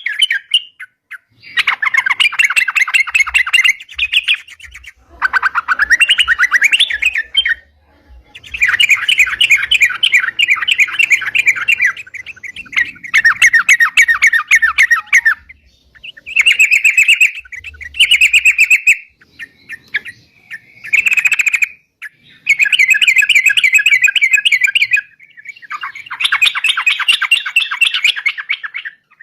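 Yellow-vented bulbul (crucukan) singing vigorously, in about ten loud phrases of quick chattering notes, each a second or three long, with short pauses between them.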